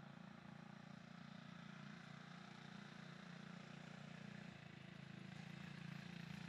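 The mini bike's Tillotson 212cc single-cylinder engine running faintly and steadily, getting a little louder in the last couple of seconds.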